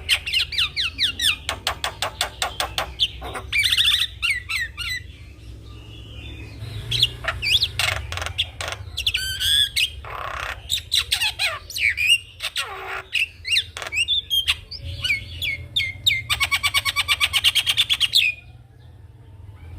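Javan myna singing a loud, varied song of rapid clicking rattles, sliding whistled notes and harsh squawks. It ends about a second and a half before the end with a fast rattling run of clicks.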